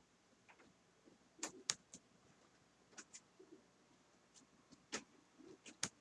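Faint, irregular clicks of a model train's wheels passing over rail joints on the layout track, about six scattered over a few seconds, with the loudest pair close together near the end.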